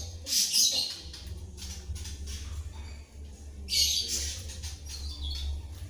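Songbirds, a greater green leafbird and a white-rumped shama, answering each other with harsh, scratchy calls. There are two short bursts, about half a second in and near four seconds, with fainter chirps between, over a steady low hum.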